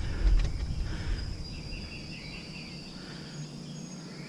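Outdoor ambience of a steady high insect drone, with birds chirping in the background. A low thump comes just at the start.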